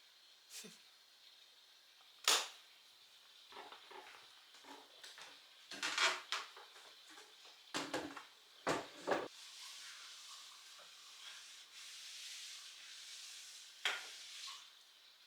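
Scattered light knocks and clicks of objects being handled, followed in the second half by a soft steady hiss.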